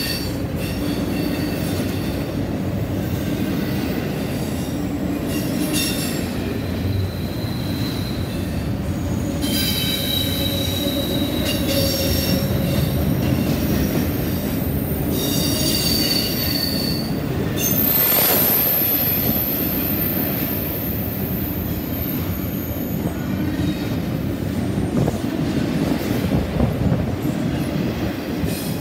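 CSX double-stack intermodal freight train rolling past close by: a steady rumble of wheels on rail, with high squeals that come and go, the longest about eighteen seconds in.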